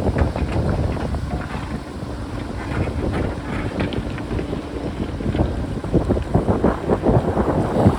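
Strong wind buffeting the microphone over a JCB backhoe loader's diesel engine working, with scattered short clattering knocks of rock.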